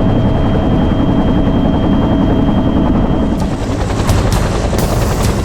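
Military helicopter running close by, its rotor beating rapidly with a thin high turbine whine that stops about three and a half seconds in; a few sharp clicks near the end.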